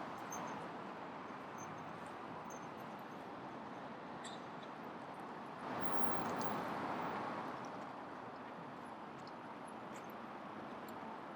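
Urban street ambience: a steady wash of city noise that swells about halfway through and then eases off, with scattered faint light clicks.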